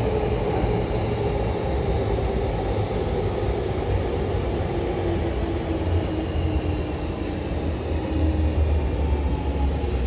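Hankyu electric commuter train slowing into a station, heard from inside the car: a steady rumble of the running gear, with a motor whine that falls slowly in pitch as the train brakes.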